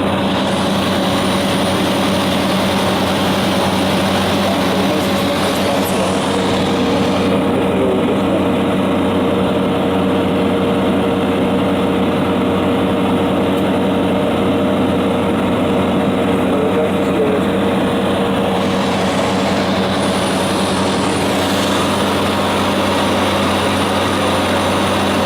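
Cessna 208 Grand Caravan's single Pratt & Whitney PT6A turboprop engine and propeller running with a steady drone, a deep hum with a steady tone an octave above it.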